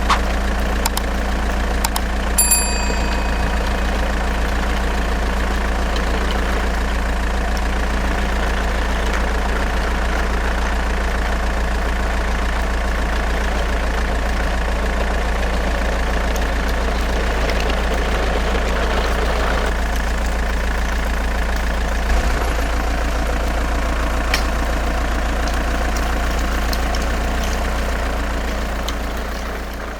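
Truck engine idling with a steady low drone, fading out at the very end. A short bright chime sounds once about two and a half seconds in.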